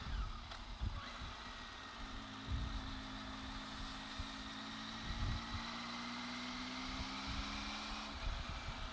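Triumph Tiger 800XC's inline-three engine running at low road speed in slow traffic, its note holding steady from about two seconds in and changing near the end. Wind buffets the microphone in low gusts throughout.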